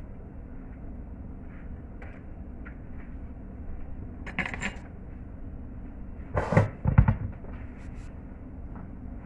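Pots-and-pans clatter: a short metallic rattle about four seconds in, then a louder run of knocks and thuds around six and a half to seven seconds, over a steady low rumble.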